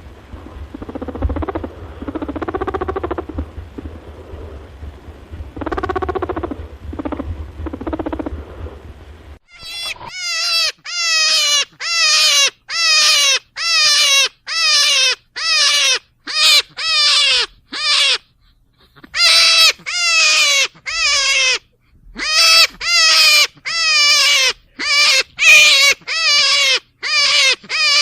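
Rabbit screams: a rapid series of loud, high wails, each under a second and falling in pitch, starting about a third of the way in. Before them comes a quieter, muffled stretch of low animal sounds over a steady hum.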